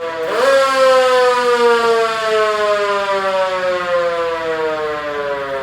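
Siren winding up sharply, then slowly winding down, its pitch falling steadily for several seconds.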